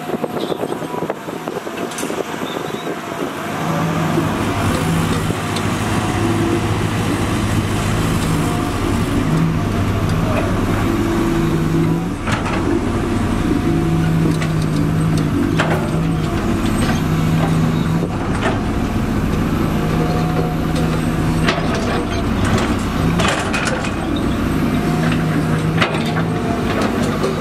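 Heavy diesel construction machinery running steadily, with a low engine hum that swells and eases and grows louder a few seconds in, and scattered knocks and clanks.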